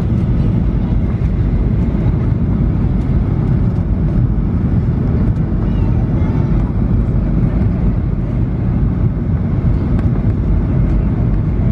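Steady cabin noise inside a Boeing 737-800 airliner: a constant low rumble of its CFM56 engines and the rushing air along the fuselage.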